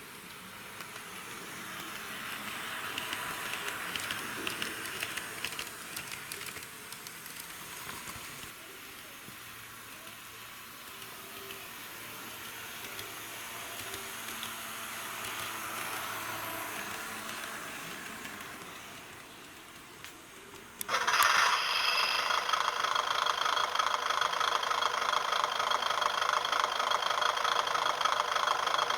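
HO-gauge model diesel railcars running on the track, their wheels and motors making a rattling run that swells and fades. About 21 seconds in, a diesel engine idling sound starts abruptly and runs on loud and steady, thin with little bass.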